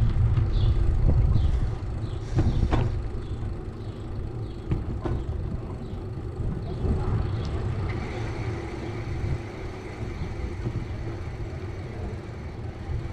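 Outdoor street ambience heard from a moving bicycle. A low rumble eases off after about two seconds. There are a few short chirps at first and scattered clicks, and a faint steady whine comes in about eight seconds in.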